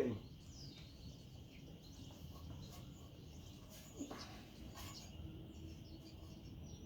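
Faint bird chirps over low background noise, with a single knock about four seconds in.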